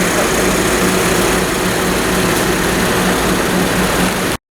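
A vehicle engine running steadily, heard from inside, with a pulsing low hum; the sound cuts off abruptly near the end.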